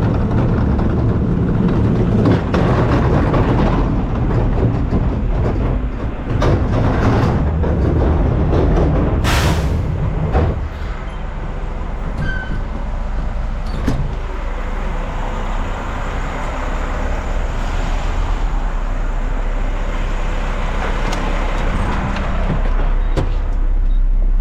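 Front-load garbage truck's diesel engine running steadily, with scattered metallic clanks and a short sharp hiss of air about nine seconds in. The engine's note drops about ten seconds in.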